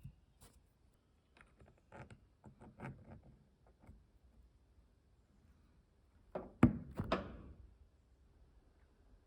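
A run of light clicks and taps, then two sharp knocks about two seconds apart in the second half, from Subaru EJ hydraulic lifters and tools being handled while the lifters are pulled and checked.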